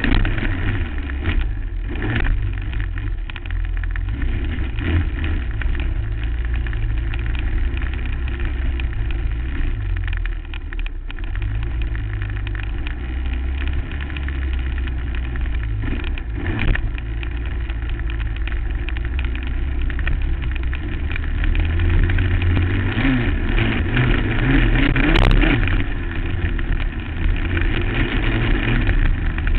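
2008 Suzuki LT-R450 quad's 450 cc single-cylinder four-stroke engine, heard from the rider's helmet, running hard and revving up and down with the throttle and gear changes over the track's bumps and jumps.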